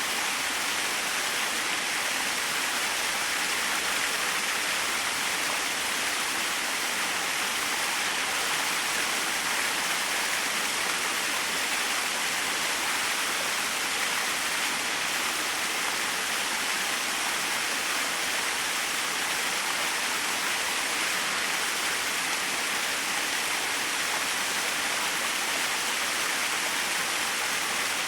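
Small waterfall splashing in a steady, even rush of falling water, with no breaks or changes.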